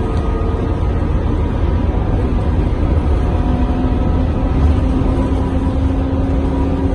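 Scania K230UB bus running on the road, heard from inside the passenger cabin: a steady low engine and road rumble, with the engine note shifting about three and a half seconds in.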